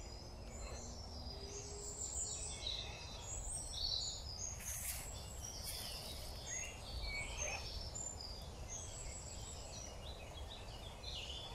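Wild birds chirping and singing over a steady low outdoor rumble, with one sharp click about halfway through.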